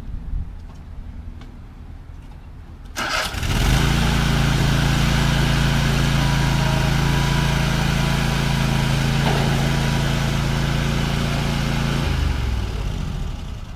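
A motor vehicle's engine is started about three seconds in. It runs steadily at one speed for about eight seconds, then dies away near the end.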